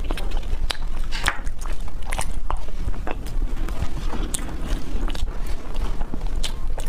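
Close-miked eating of soft desserts: repeated wet mouth clicks and smacks from chewing, with a bite into a mochi near the end. A steady low hum sits underneath.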